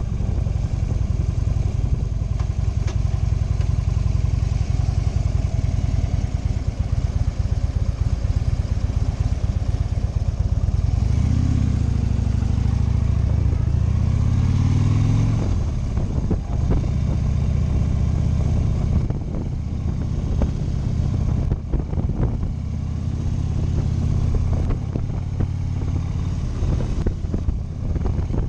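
Motorcycle engine running on the move, its pitch climbing twice about halfway through as the revs rise, then settling to a steady drone.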